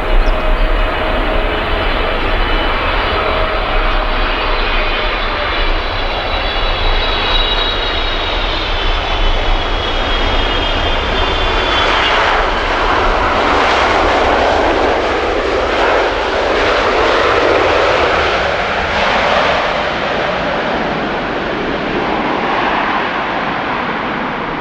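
Jet airliner passing close by: a high engine whine slowly falling in pitch, then the broad roar of the engines about halfway through, which eases off near the end.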